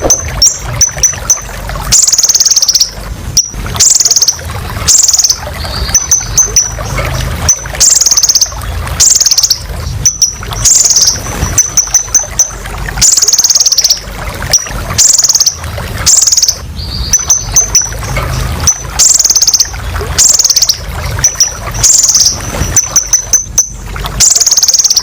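Kolibri ninja (konin) sunbird singing loudly and continuously. Quick runs of short high chirps alternate with buzzy half-second trills that fall in pitch, about one phrase a second, over a low background rumble.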